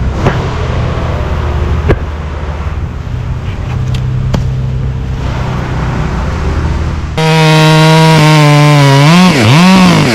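Chainsaw engine running at high revs, loud and close, coming in suddenly about seven seconds in and then revving up and down about twice a second. Before it, a steadier, lower engine hum with a few sharp clicks.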